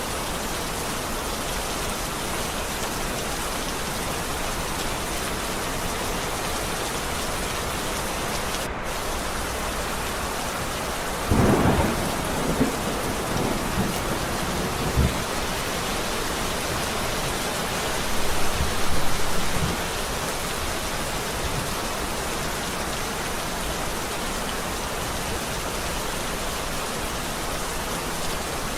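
Steady rain falling, with thunder rumbling twice: a longer roll starting about 11 seconds in and another about 18 seconds in.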